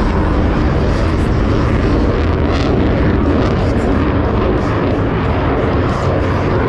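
Airplane engine noise from an aircraft flying by, a loud, steady rush.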